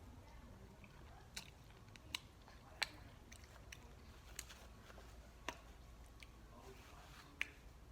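Quiet close-up chewing, with irregular sharp wet mouth clicks and smacks.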